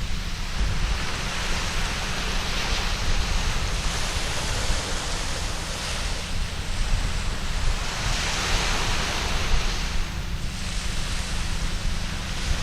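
Surf breaking on a sandy beach, the wash swelling and easing every few seconds, with a low wind rumble on the microphone.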